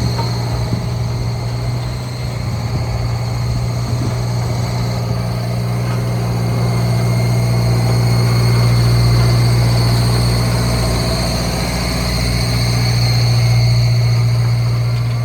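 Diesel engine of heavy construction machinery running steadily with a deep hum, growing louder twice before easing back.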